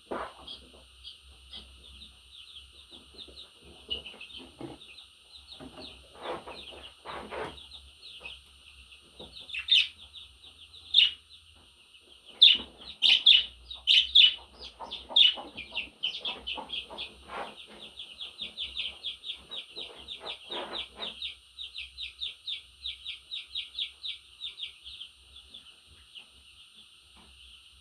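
Budgerigar warbling and chattering: a continuous stream of rapid high chirps, with a few louder calls near the middle. In the second half the chirps settle into a fast, even trill before fading near the end.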